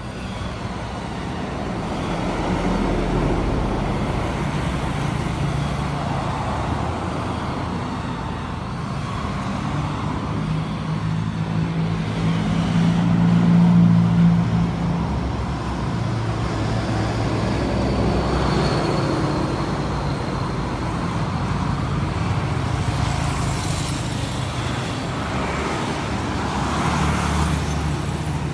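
Car engine running amid road traffic noise, swelling loudest about halfway through.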